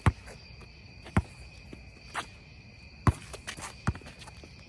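Basketball bouncing on an outdoor court: about five sharp thuds, roughly a second apart. Under them runs a steady, high, shrill drone of crickets or other insects.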